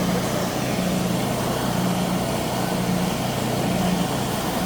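Steady machine noise from a workshop, with a low hum that swells about once a second.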